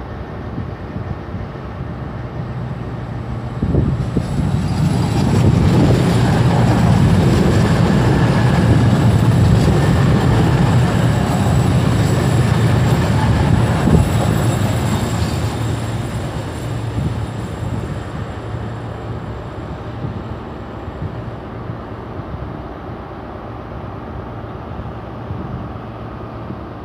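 Diesel passenger train moving through the station: its engine drone builds about four seconds in, is loudest for some ten seconds, then slowly fades. Thin high steady tones from the wheels or brakes sound above it while it is loudest.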